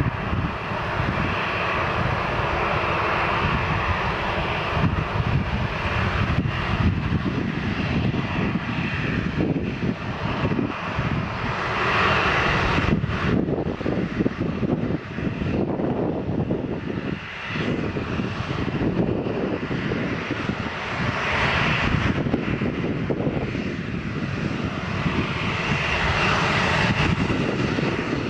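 Airplane engines running loud and steady close by, a dense roar that holds for the whole stretch with only small swells and dips.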